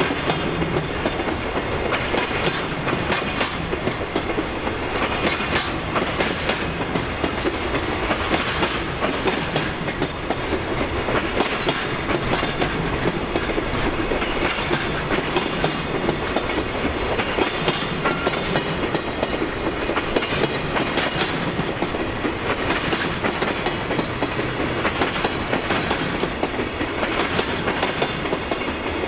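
JR Freight Koki container flatcars rolling past, their wheels clattering steadily over the rail joints.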